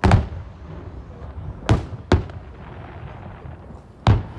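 Aerial firework shells bursting with deep booms: four bangs in all, one at the start, two in quick succession about a second and a half later, and one near the end.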